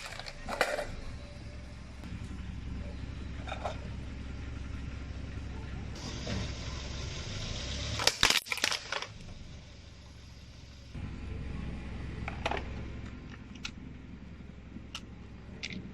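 Car engine running low and steady while a tyre rolls over and crushes a crunchy object, with a burst of sharp cracks and crunches about eight seconds in and a few scattered clicks elsewhere.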